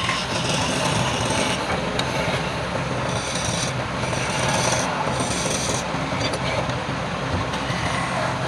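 Wood lathe running while a tool rubs and rasps against the spinning wooden workpiece. The sound is steady, with stretches of brighter hiss that come and go several times.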